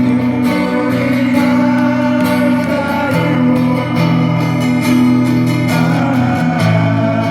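Acoustic guitar music: steady strumming over held low notes.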